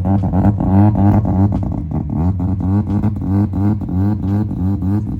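Rotary engine of a rotary-swapped Subaru BRZ idling loud and lumpy, a steady pulsing brap about three times a second.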